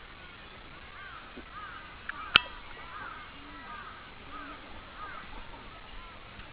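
Great cormorants calling: a run of short, arched calls repeated about every half second, with one sharp click about two seconds in.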